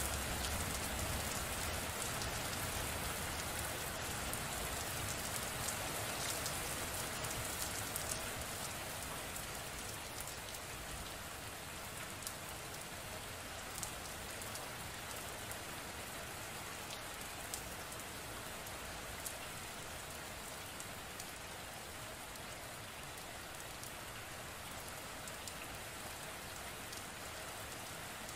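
Steady rain falling, an even hiss with scattered sharp drop ticks, easing slightly over the first ten seconds.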